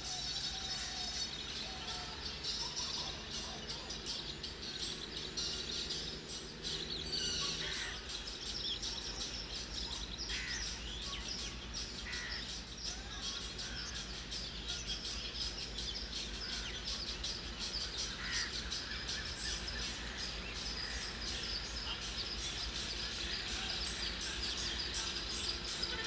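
Birds chirping and calling again and again over a steady low outdoor rumble.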